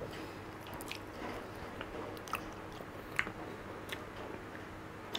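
Close, quiet mouth sounds of someone eating soft, creamy durian flesh: wet chewing with a handful of small lip-smack clicks scattered through, over a faint steady hum.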